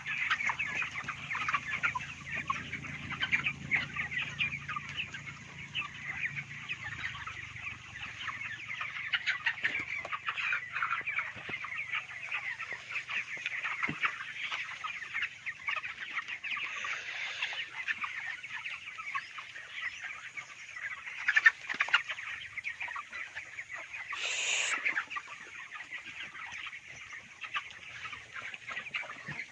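A flock of 26-day-old broiler chickens peeping and clucking all together in a dense, continuous chatter. A brief noisy rustle about 24 seconds in.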